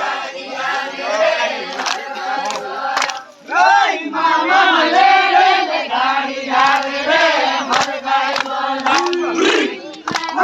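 A crowd of voices singing and chanting a garba folk song together, with a short break about three and a half seconds in.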